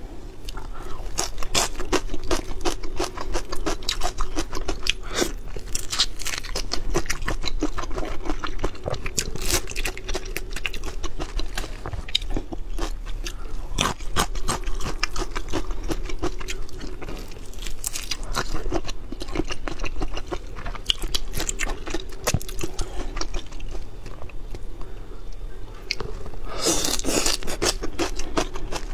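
Close-miked eating of prawns wrapped in cilantro: frequent, irregular crunching, biting and chewing, with a louder crunch near the end.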